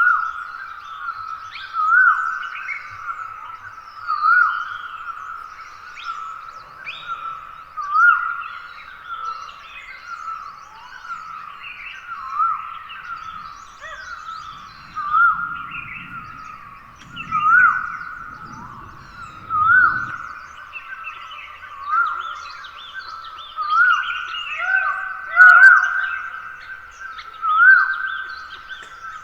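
Dawn chorus of wild forest birds: one bird repeats a short rising call about every two seconds, over many smaller chirps and twitters from other birds. A faint low rumble runs underneath for several seconds around the middle.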